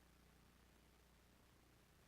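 Near silence: a faint steady low hum with hiss, the recording's noise floor.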